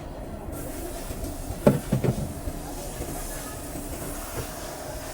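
Steady machine hum with a quick run of three or four knocks about a second and a half in, and a faint hiss building near the end.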